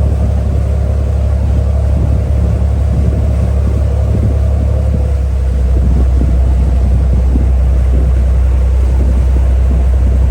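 Ferry's engine running steadily under way: a deep, loud drone with a steady hum above it, growing slightly louder about halfway through.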